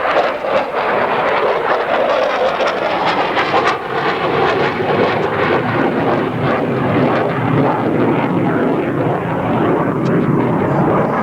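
Loud, steady jet noise from an F-15C Eagle's twin afterburning turbofan engines as the fighter flies its display overhead.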